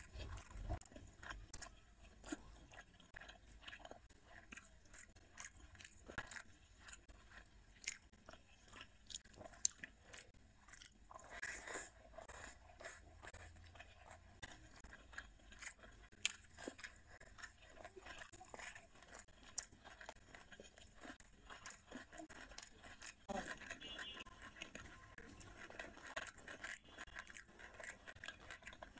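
A person chewing mouthfuls of rice and curry eaten by hand, with frequent small wet clicks and smacks of the mouth.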